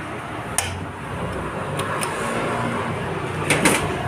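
Excavator engine running steadily, with a few short sharp knocks, the loudest near the end.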